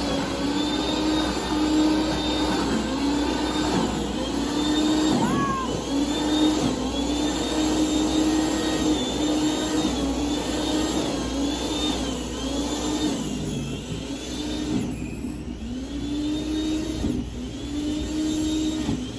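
Snowblower engine running steadily, its pitch dipping briefly and recovering every second or two.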